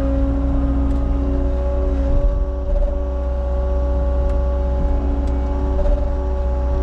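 Cat 279 skid steer's diesel engine running steadily under load, a low rumble with a steady hydraulic whine over it.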